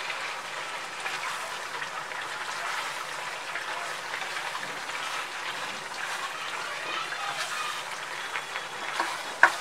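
Chicken pieces and raw chicken mince sizzling in masala in a nonstick frying pan as a spatula stirs and scrapes them through, a steady crackle. A single sharp knock near the end.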